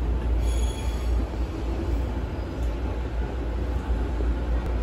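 Interior running noise of an Aonami Line 1000-series electric train car: a steady low rumble, with a faint high squeal briefly about half a second in.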